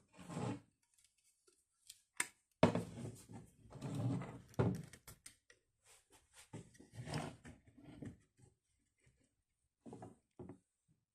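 Irregular knocks and thuds with handling noise between them; the sharpest knock comes a little under three seconds in, followed by a couple of seconds of continuous scraping or rubbing.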